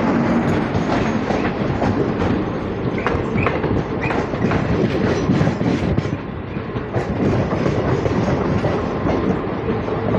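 MMTS electric local train running at speed, heard from an open doorway: steady wheel-and-rail noise with rapid clickety-clack over the track joints. A few brief high squeals come from the wheels about three to four seconds in.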